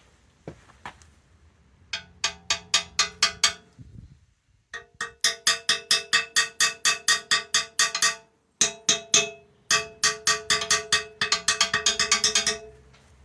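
Hammer striking steel repeatedly, each blow ringing, in four quick runs of about four to five blows a second with short pauses between.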